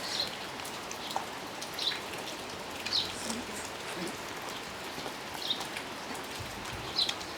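Steady rainfall, with short, sharp sounds every second or two on top.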